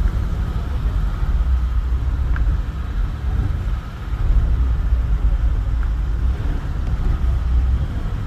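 Loud, steady low rumble with a faint constant tone above it.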